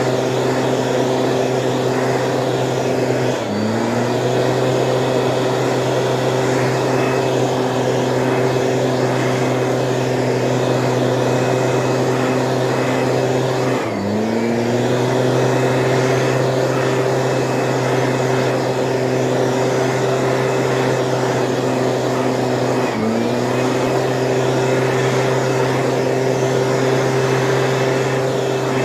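Stihl engine of a motorised weed sprayer running steadily. Three times its pitch dips briefly and climbs back within about a second.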